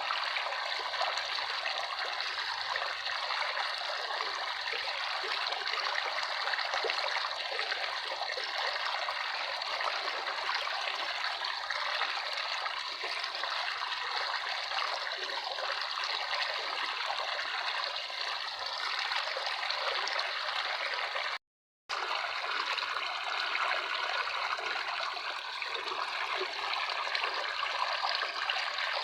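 Steady running water trickling, an even rushing hiss with small splashy variations. It cuts out completely for a fraction of a second about two-thirds of the way through, then resumes unchanged.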